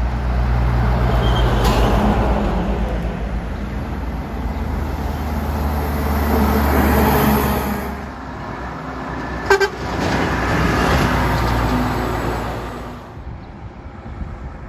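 Heavy trucks driving past with engines running, the sound swelling and fading as each passes, and a brief horn toot about nine and a half seconds in.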